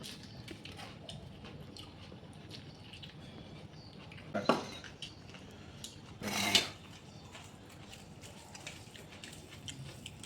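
A person eating rice and chicken curry by hand: chewing and small mouth clicks and smacks, with two louder short sounds, one about four and a half seconds in and one about six and a half seconds in.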